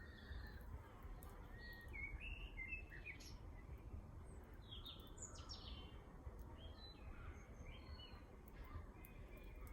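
Several garden birds chirping and singing faintly in short scattered phrases, over a steady low background rumble.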